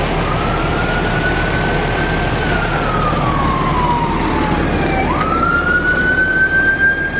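Emergency vehicle siren wailing: a slow rise, a long fall, then a quick rise back up about five seconds in, over a steady low rumble of vehicle engines.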